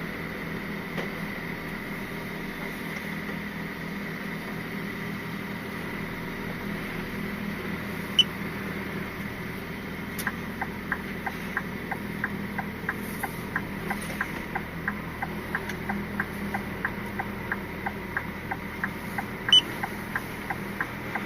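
Scania R450 truck's straight-six diesel running steadily, heard from inside the cab. About halfway through, a regular ticking starts at about two ticks a second, typical of the turn-signal relay as the lorry pulls out, with two single louder clicks besides.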